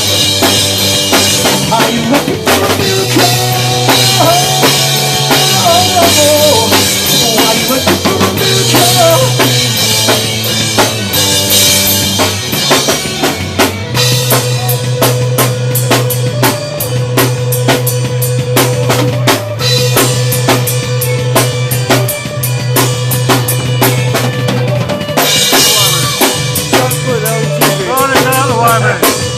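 Live band playing an instrumental passage without vocals: a full drum kit with kick and snare over a bass line and held, bending higher notes.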